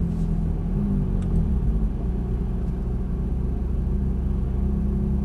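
Ferrari F430 F1's V8 engine running at low revs with a steady low rumble as the car creeps along at walking-to-jogging pace, heard from inside the cabin; its note shifts slightly about a second and a half in.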